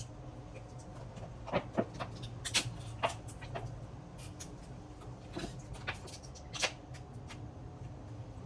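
Kitchen handling sounds: scattered light clicks and knocks of utensils and containers being moved and set down, over a steady low hum.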